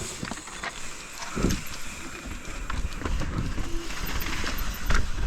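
Mountain bike riding down a rough dirt trail: tyre noise and quick rattling knocks from the bike over the ground, with wind rumbling on the microphone, getting louder toward the end.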